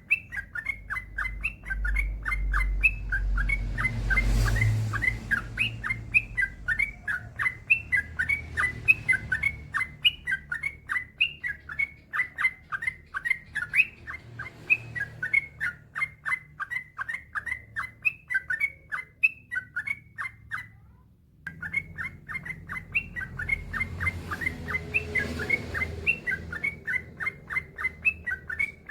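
Yellow-vented bulbul (trucukan) singing a long unbroken run of short chirping notes, about four to five a second, with one brief break about twenty seconds in.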